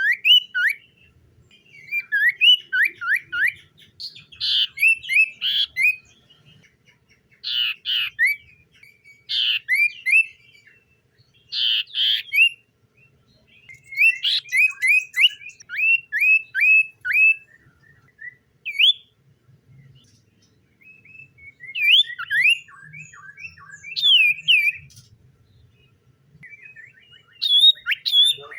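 Common iora singing: phrases of quick, rising whistled notes repeated in runs, with short pauses between phrases and a longer lull a little past the middle.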